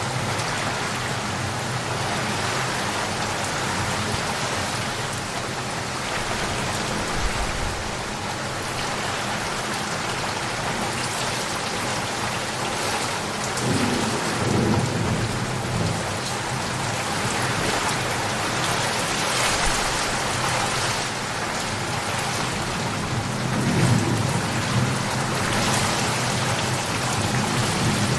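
Steady rain falling in a thunderstorm, with low thunder rumbling in twice, about halfway through and again near the end.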